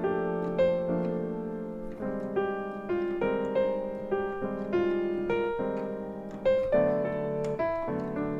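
Solo piano playing a bossa nova, both hands together: held chords in the left hand under a simple melody in the right, at a moderate tempo.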